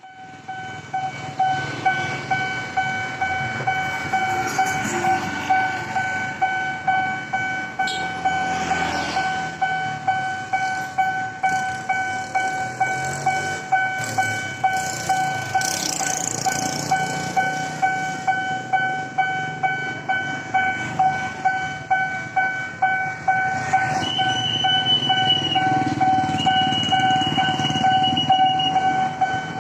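Nippon Signal EM 2001 series level crossing's electronic warning bell ringing in a rapid, even repeat, the warning that a train is approaching and the barriers are closing. A higher second tone sounds twice near the end.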